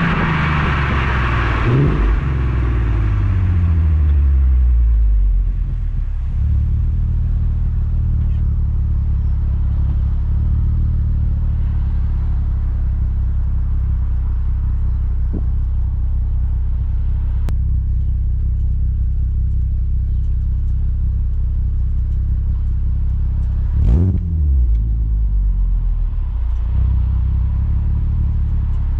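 Skoda Superb 3.6 FSI VR6 engine through a Gestec cat-back exhaust: the revs fall away over the first several seconds and settle into a steady warm idle. About three-quarters of the way through there is one short throttle blip that rises and drops back to idle.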